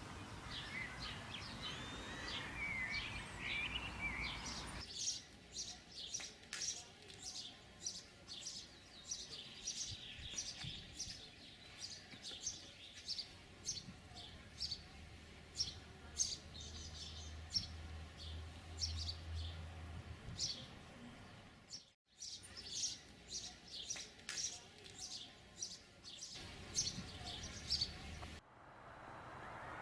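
Songbirds chirping and singing, with many short high chirps in quick succession. The background changes abruptly about five seconds in and again near the end, where separate nature recordings are joined.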